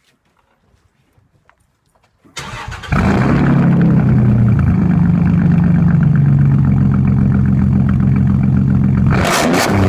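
Straight-piped 2004 Dodge Dakota 3.7 L V6 starting about two seconds in: a brief crank, then it catches and runs loud and steady with a deep exhaust note. Near the end the exhaust breaks into a choppy pulsing, about three sharp pulses a second.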